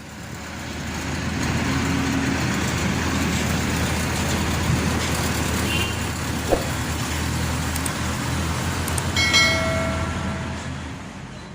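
Maxxi NDR 85 Turbo combine harvester's diesel engine running loud and steady, with a single sharp knock about six and a half seconds in and a short high-pitched squeal near the end.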